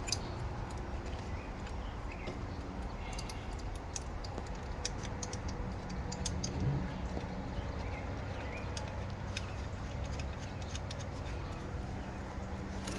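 Faint, scattered metal clicks as coil-pack hold-down bolts are threaded in by hand, over a steady low background hum.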